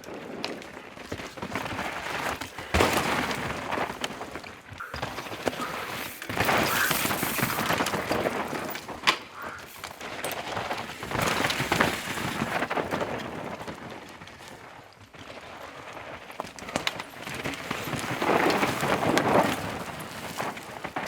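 Mountain bikes ridden over loose, dusty rock: tyres crunching and skidding, with sharp clacks from rock strikes. The noise swells and fades several times as riders pass.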